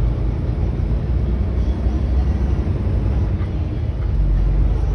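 Steady low road rumble of a moving car, tyre and engine noise heard from inside the cabin.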